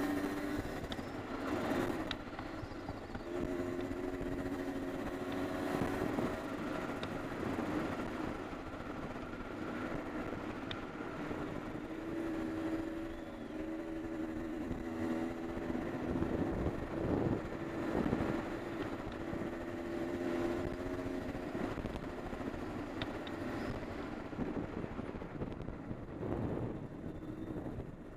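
Honda CR250R two-stroke single-cylinder dirt bike engine running on a trail ride, its pitch repeatedly rising and falling as the throttle is opened and closed.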